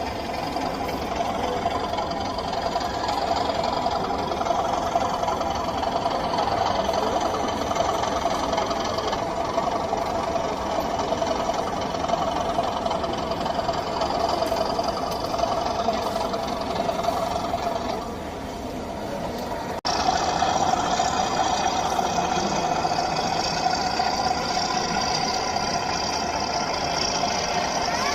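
Model trains running on an exhibition layout: a steady small electric motor hum with wheel and track noise, under faint hall chatter. The sound changes abruptly about twenty seconds in.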